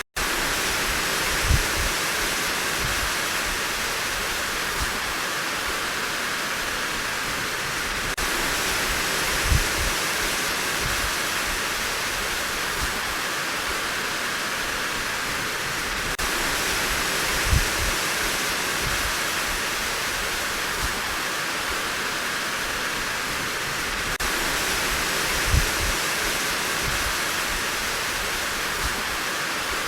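Steady heavy rain falling, an even hiss, with a short low thud about every eight seconds and a brief cut-out right at the start.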